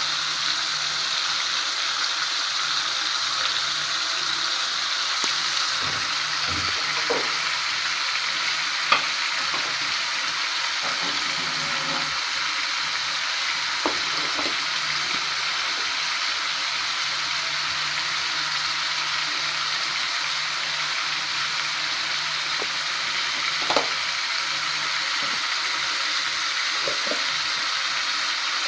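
Chicken pieces frying in oil with chili powder and spices in a metal pot, a steady sizzle while being stirred. The stirring spoon gives a few sharp knocks against the pot.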